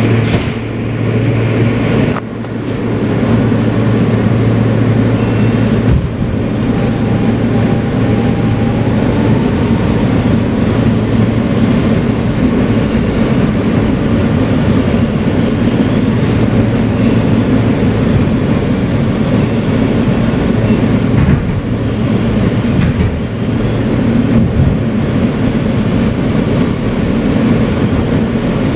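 Kawasaki R160B subway car with Siemens propulsion pulling out after its doors close and running along the track, heard from inside the car. The wheels on the rails give a steady rumble throughout. A faint rising motor whine comes a few seconds in.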